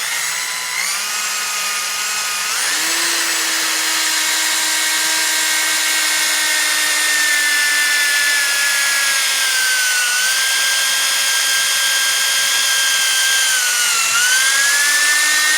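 Electric drill boring a hole through a golf ball, the motor whining steadily. It speeds up a couple of seconds in, then its pitch sags twice near the end as the bit bites under load.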